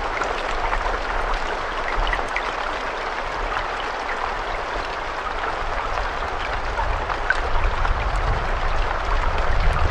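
Steady rain falling: a dense, even hiss with scattered taps of single drops. A low rumble comes in about three-quarters of the way through.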